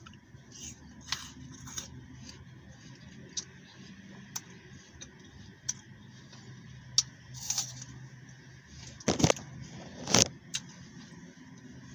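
Someone chewing a crisp green apple close to the microphone: small crunches and mouth clicks, with two louder crunches near the end.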